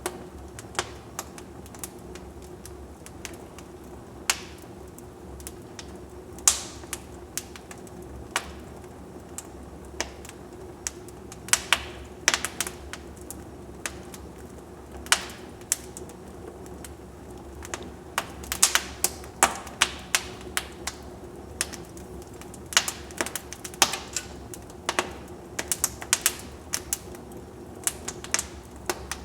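Wood fire in a fireplace crackling: irregular sharp pops and snaps, coming thicker in the second half, over a steady low background.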